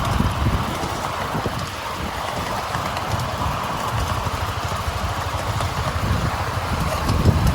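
Miniature railway train running along the track with a steady rumble.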